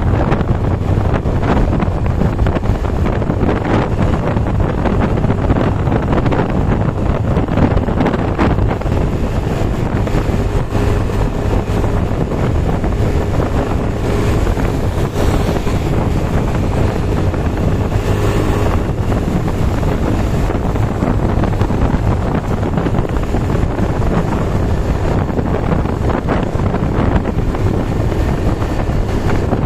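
Steady, loud wind buffeting on the microphone over a low rumble, recorded in heavy rain.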